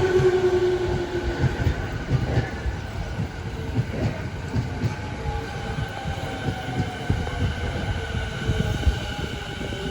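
Sobu Line electric commuter train running past on jointed track, its wheels knocking rapidly over the rail joints. A whine falls in pitch near the start, and the sound eases slightly toward the end.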